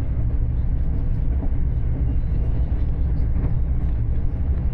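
Passenger train in motion, heard as a steady low rumble.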